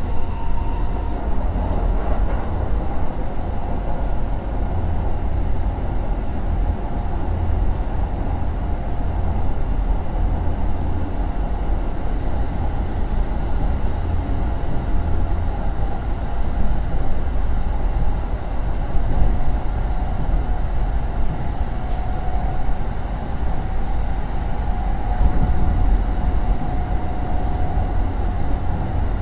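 Running sound of a Kintetsu 2050 series electric train in motion: a steady low rumble of wheels and running gear on the rails, with a faint steady hum above it.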